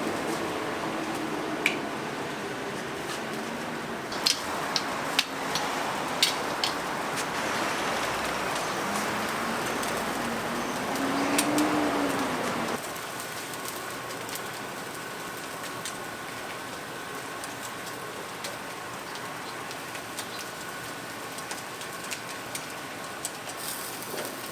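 Oak-wood fire crackling and roasting chickens sizzling: a steady hiss with scattered sharp pops in the first half. About halfway in the sound drops to a quieter hiss with a faint steady hum.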